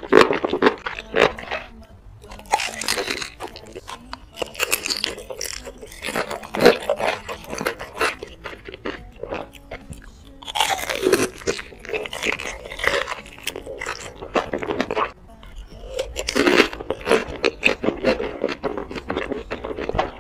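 Close-miked eating sounds: wet, crunchy chewing and biting of sauce-coated enoki mushrooms and a fried piece, coming in uneven bursts of crackly mouth clicks.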